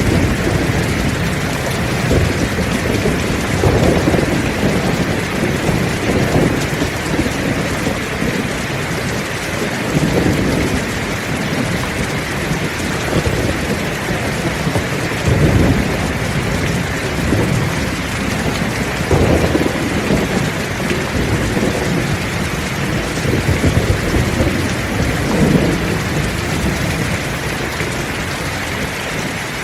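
Heavy rain pouring steadily, with thunder rumbling again and again underneath in low swells every few seconds.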